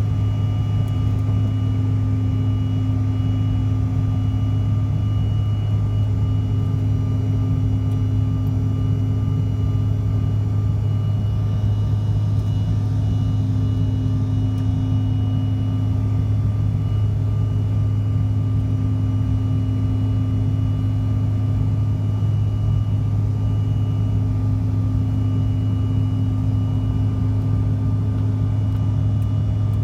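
Cabin noise of a CRJ700 regional jet in flight: the rear-mounted turbofan engines and airflow make a steady deep drone with several steady whining tones above it.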